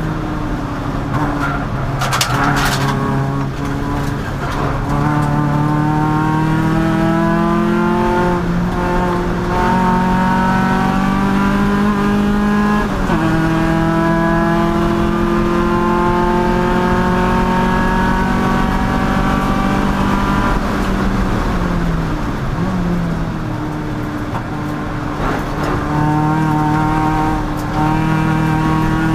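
Race car engine under hard acceleration, its pitch climbing and dropping sharply at about 8 and 13 seconds as it shifts up. It then falls away for a few seconds as the car slows for a corner and climbs again near the end. A brief crackle of clicks comes about two seconds in.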